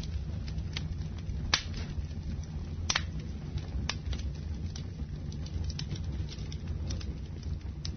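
Wood fire burning in a fireplace: a steady low rumble of flames with sharp crackles and pops scattered throughout, the loudest pops about one and a half and three seconds in.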